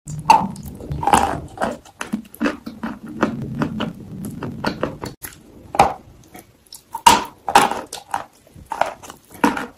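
Close-miked biting and chewing of a chocolate-coated treat, with many sharp crackles of the coating breaking and wet mouth sounds.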